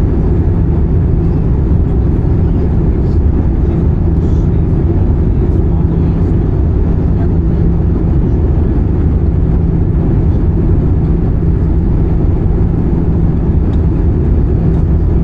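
Steady cabin noise of an Airbus A320-214 in flight: a loud, constant roar of airflow and engines with a steady low hum.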